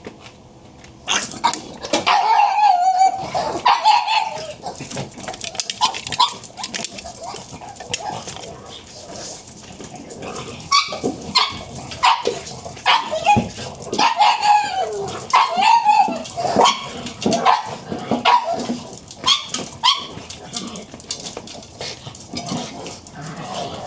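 Pugs barking and whining: a long run of short, high yaps with wavering whines between them, starting about a second in.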